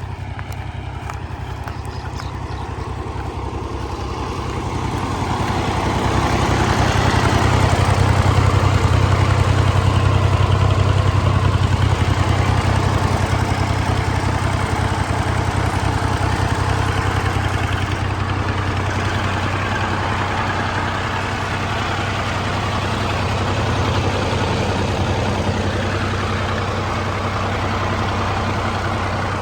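Fiat 480 tractor's diesel engine running steadily under load, driving a wheat thresher. A constant low engine drone sits beneath a broad rushing machine noise that swells from about five seconds in and stays loud.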